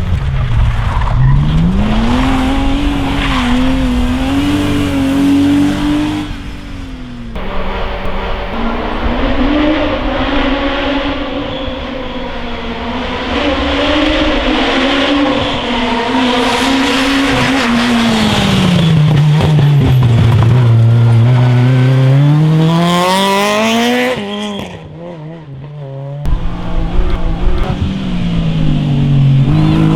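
Rally cars being driven hard on a stage, one clip after another. Each engine note climbs, holds and drops with the revs and gear changes as the cars pass. Near the end one engine revs up sharply before the sound cuts to another car.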